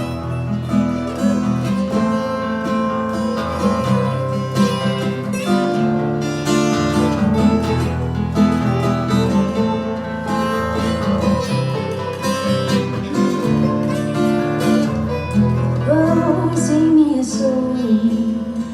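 Acoustic guitar playing a sustained instrumental passage of a live song, with a voice coming in briefly near the end.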